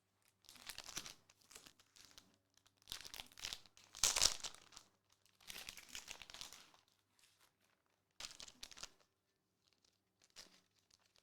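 Plastic wrapping and card sleeves crinkling in about five short bouts as trading cards are unwrapped and handled, the loudest about four seconds in.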